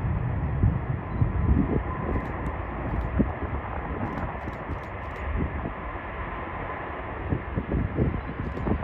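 Steady rushing noise of a jet airliner's engines, with gusts of wind buffeting the microphone.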